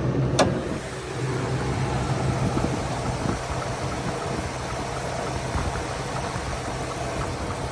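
2003 Ford F-350's 6.8-liter V10 gas engine idling steadily, with one sharp click about half a second in.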